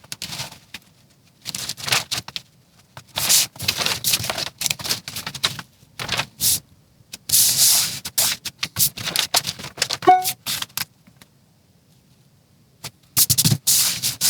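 Sheet of clear patterning plastic being folded in half and handled, crinkling and rustling in irregular bursts, with a pause about three-quarters of the way through.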